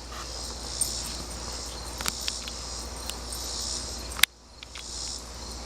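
Steady high-pitched chirring of insects in the yard, with a few faint ticks and one sharp click about four seconds in.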